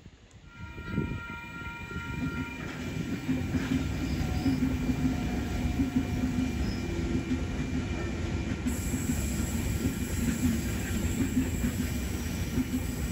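A passing train running on the line: a steady heavy rumble with wheel-on-rail noise, coming in abruptly about half a second in.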